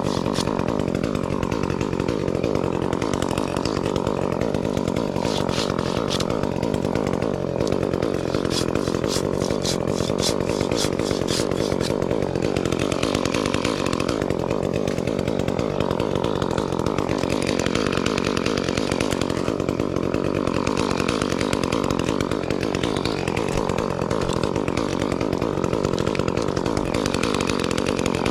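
Gas chainsaw running continuously, its engine pitch dipping and recovering several times.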